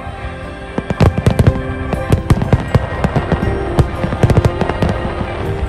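Aerial fireworks going off in a quick run of sharp bangs and crackles, starting about a second in, over music with steady held tones.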